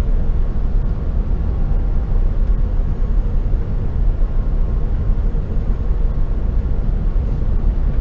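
Steady low rumble inside the cabin of an Airbus A380 airliner, from its engines and airflow or wheels, with no distinct knocks or chimes.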